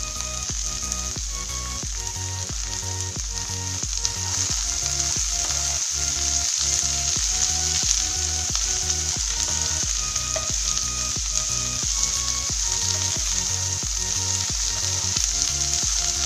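Shredded cabbage, peas and onion sizzling in hot oil in a frying pan as they are stir-fried with a wooden spatula. The sizzle gets louder about four seconds in. Soft background music with a steady beat plays underneath.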